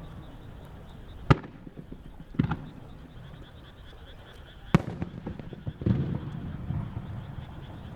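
Warimono aerial firework shells bursting overhead: four bangs, a sharp one a little over a second in, a lighter double report a second later, a loud one near five seconds, then a duller boom followed by crackling. A steady crowd murmur lies underneath.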